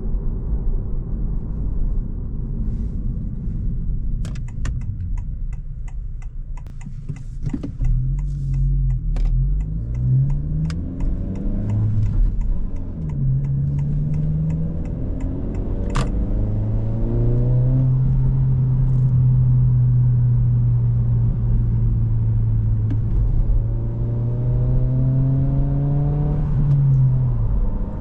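Stock 2025 Honda Civic Si's 1.5-litre turbocharged four-cylinder pulling away: its pitch climbs in short steps with each upshift of the manual gearbox, then holds a long steady pull before easing off near the end. A run of sharp ticks sounds in the first half.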